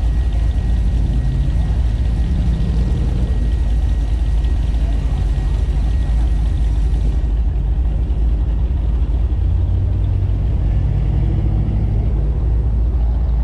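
Car engine running at low speed with a deep, steady rumble.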